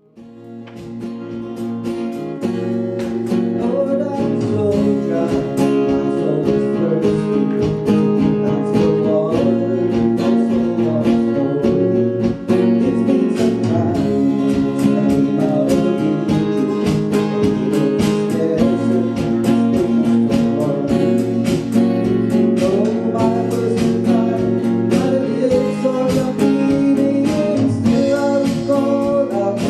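Acoustic guitar music, strummed in a steady rhythm; it fades in over the first couple of seconds.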